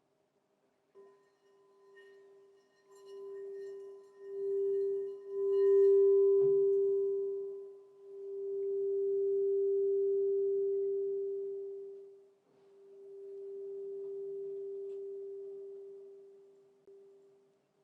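Crystal singing bowl sounding one steady low tone that swells and fades in slow waves. About a second in, higher ringing overtones join it and die away over the next several seconds, with a light knock about six and a half seconds in.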